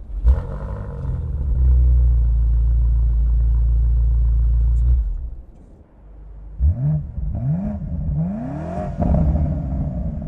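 2025 BMW M5 Touring's V8 exhaust: the engine starts and holds a steady raised idle for about five seconds, settles, then takes four short rising throttle blips followed by a longer rev about nine seconds in.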